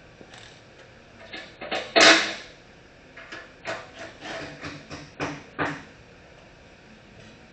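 Metal knocks and clatter from working the exhaust tailpipe into position: one loud knock about two seconds in, then a run of about eight smaller knocks over the next few seconds.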